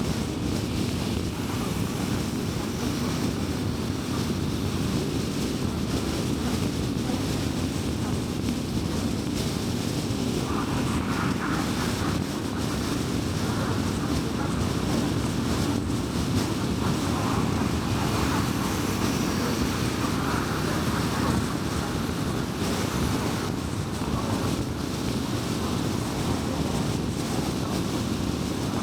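Steady road noise of a car driving along a highway: low tyre rumble and engine hum, with a few brief swells of higher hiss.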